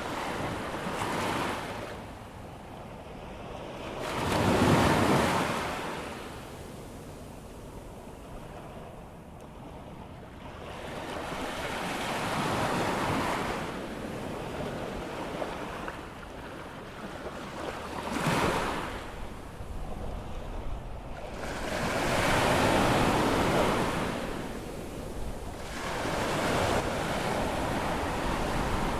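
Atlantic surf on an incoming tide: waves breaking and washing in about five swells, the loudest about five seconds in, with a short sharp break about eighteen seconds in.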